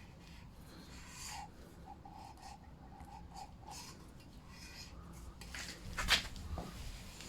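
Quiet workshop handling sounds: a short run of faint squeaky chirps, then one sharp metallic clink about six seconds in.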